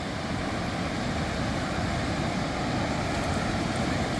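Steady rushing noise of ocean surf and wind at the beach, even throughout with no distinct sounds standing out.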